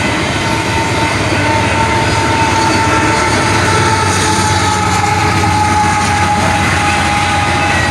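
Train cars rolling past: a loud, steady rumble with a thin steady whine over it.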